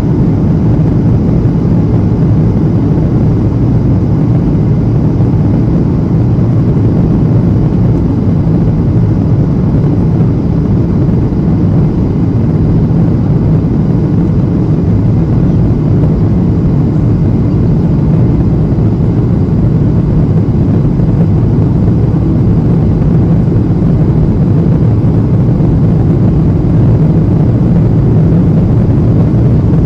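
Steady low drone inside the passenger cabin of a Boeing 737-800 in flight: its CFM56 engines and the airflow over the fuselage, as heard during the approach to landing.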